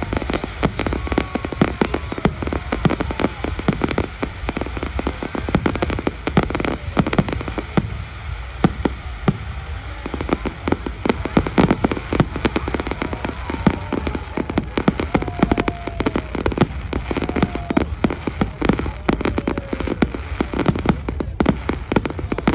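Fireworks display: a dense, continuous barrage of bangs and crackles from many shells bursting in quick succession.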